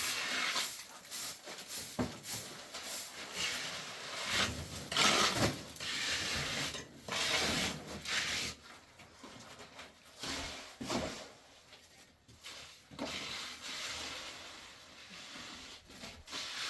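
Irregular scraping and rubbing, a series of uneven noisy strokes and knocks.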